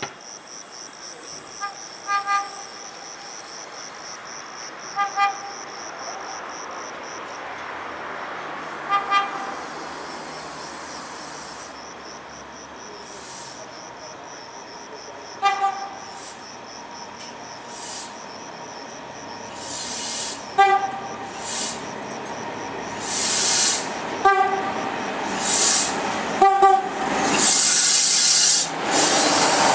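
Train horn giving short toots, mostly in pairs, seven times as the train approaches. Noise builds and grows louder over the last ten seconds as the train reaches the platform.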